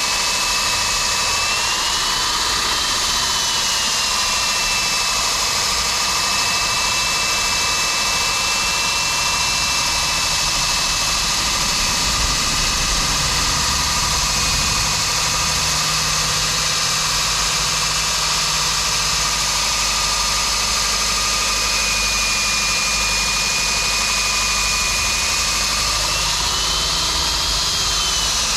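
Electric core drill with a 110 mm bit cutting through concrete, its motor running steadily under load with a high whine that rises briefly about two seconds in and again near the end.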